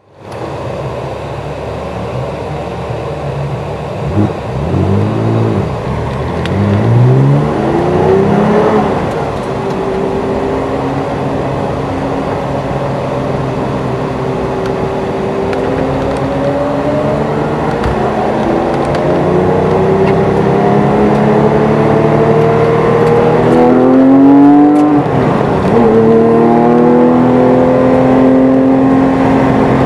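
Porsche GT3 RS's naturally aspirated flat-six, heard from inside the cabin: it idles, revs rise and fall a few times, then it pulls away and its pitch climbs slowly as the car rolls down the pit lane. About 25 seconds in the revs drop at a gearchange, then climb again as it accelerates onto the track.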